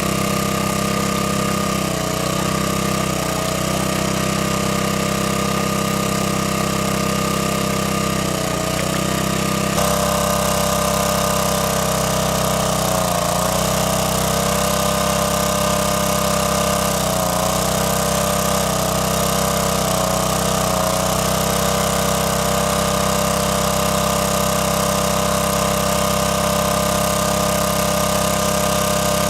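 A small engine running steadily, its pitch dipping briefly every few seconds as if under changing load, with a shift in its tone about ten seconds in.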